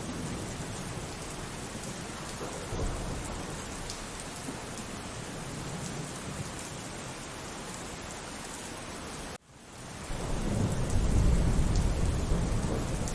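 Steady rain with low, rolling thunder. About nine seconds in, the sound cuts out abruptly for an instant, like an edit splice, then a louder thunder rumble swells up.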